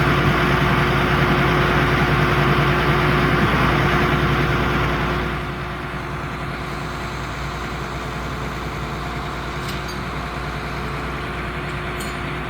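An engine running steadily. It is louder for the first five seconds, then drops to a quieter steady run.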